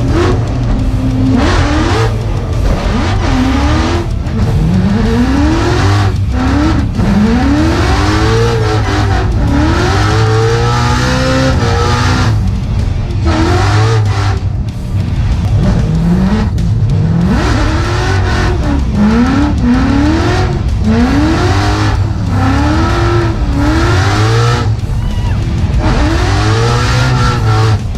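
Whipple-supercharged Coyote V8 of a Mustang drift car revving hard up and down again and again, with tyre squeal, over music.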